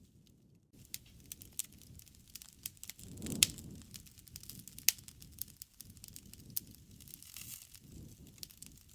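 Wood fire crackling, with irregular sharp pops and snaps over a low rumble. The loudest pops come about three and a half seconds in and again about a second later.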